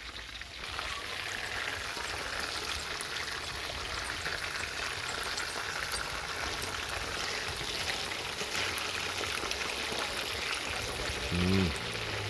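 Food frying in hot oil: a steady sizzle full of fine crackles, growing louder about half a second in. A brief voice sounds once near the end.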